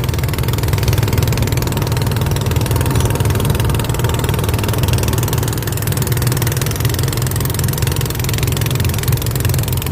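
Motorboat engine running at a steady, even speed, a constant low drone with no change in pitch or level.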